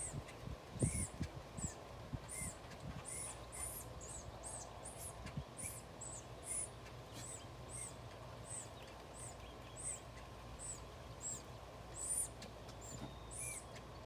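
A bird chirping over and over, short high chirps about twice a second, with a few low thumps in the first couple of seconds.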